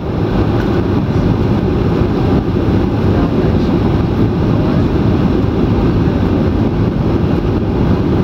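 Steady, loud cabin noise inside a Boeing 737-800 in flight on its approach: the low rush of airflow and the CFM56 turbofan engines.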